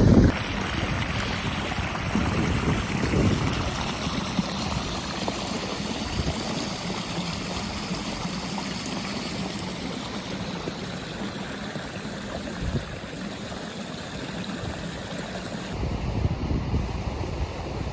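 Steady rushing of flowing water, with low gusts of wind on the microphone in the first few seconds and again near the end.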